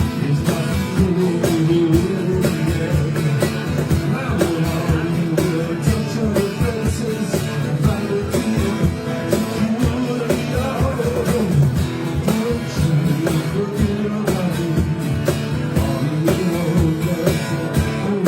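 Live rock band playing a song, with guitar, a steady drum beat and singing.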